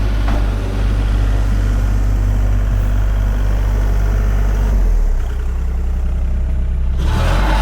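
Heavy equipment engine running steadily close by, its low hum shifting about five seconds in, with more mechanical noise joining near the end.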